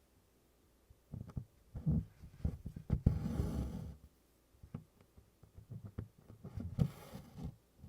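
Hand stitching: a needle and DMC floss pulled through 24-count Congress cloth, with soft taps and rustles of handling the canvas. It includes two longer scratchy pulls of thread, one about three seconds in and one near the end.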